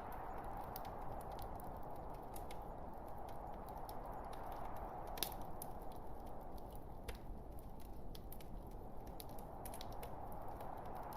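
Log fire crackling: a steady low rush of burning wood with irregular sharp pops and snaps, the loudest about five seconds in.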